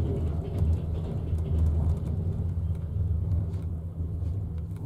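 Steady low rumble of a double-decker passenger train running, heard from inside the compartment, with faint scattered clicks.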